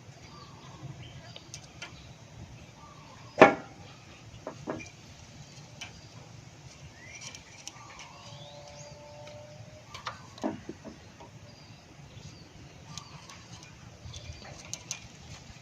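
Scattered knocks and clicks of hand tools and small engine parts being handled and set down, with one sharp knock about three and a half seconds in and smaller ones just after and around ten seconds in.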